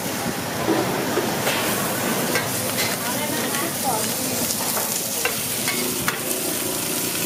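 Seafood frying in oil on a large flat street-food pan, with a steady sizzle. A metal spatula scrapes and clicks against the pan several times.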